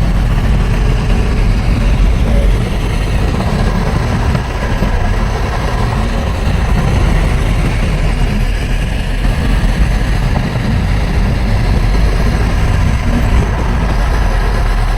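Heavy diesel earthmoving machinery running steadily, a loud low engine rumble.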